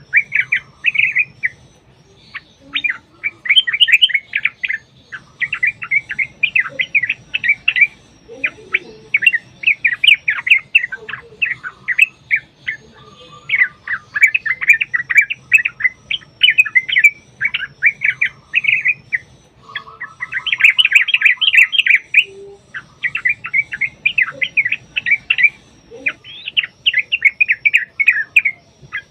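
Yellow-vented bulbuls (trucukan) singing in fast, chattering bouts of chirpy notes, with brief pauses between bouts. This is the long, rapid 'ropel' song used as a lure to set other trucuk birds singing.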